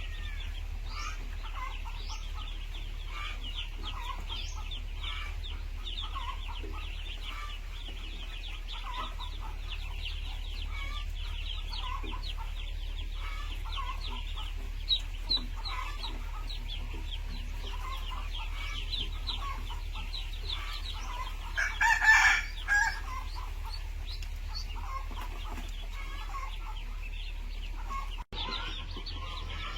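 A flock of chickens clucking, with constant high peeping chirps. A rooster crows loudly once, about two-thirds of the way through.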